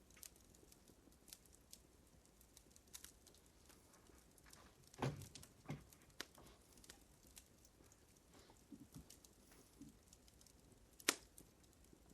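Fire crackling faintly: scattered small snaps and pops, with a louder pop about five seconds in and a sharper one near the end.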